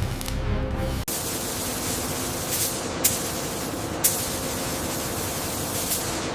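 Music stops about a second in and gives way to a steady, loud hiss, broken by two sharp cracks about three and four seconds in.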